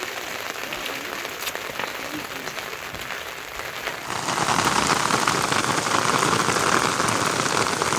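Steady rain falling, with scattered drops ticking, growing heavier and louder about halfway through.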